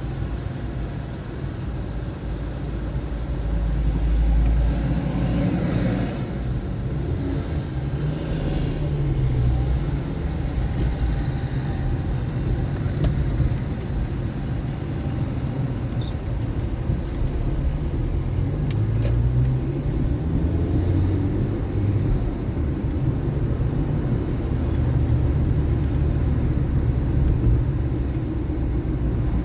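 A car driving in city traffic: a continuous low engine and road rumble, with the engine pitch rising and falling as it speeds up and slows.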